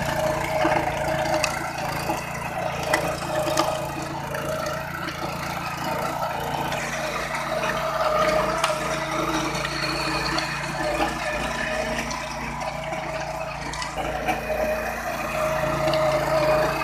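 BCS 730 walk-behind power tiller's 8.5 hp engine running steadily, with a rushing noise over it.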